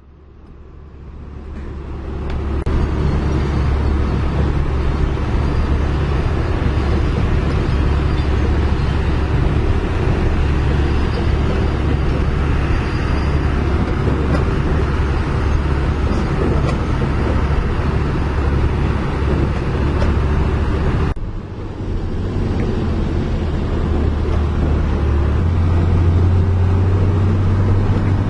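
Heavy diesel engine of construction equipment running loud and steady, building up over the first few seconds. About two-thirds of the way through, the sound changes abruptly, and a few seconds later the engine note steps up as it speeds up.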